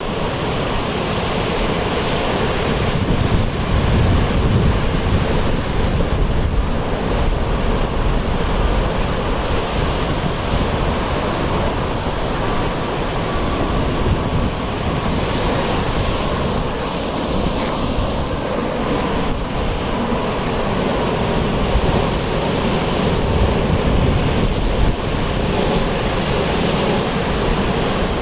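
Sea surf washing onto the beach in a steady wash of noise, with wind buffeting the microphone.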